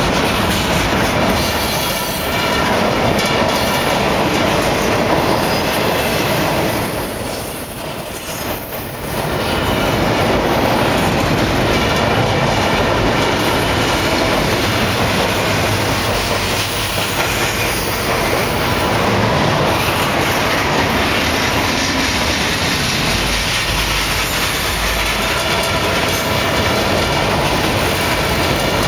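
Double-stack intermodal well cars of a CP Rail freight train rolling past, a steady, loud rumble of wheels on the rails, easing off briefly about seven to nine seconds in.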